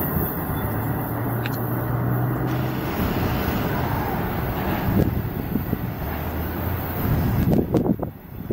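Double-stack intermodal freight train rolling away down the track: a steady rumble of wheels on rail, with a few louder irregular bumps near the end.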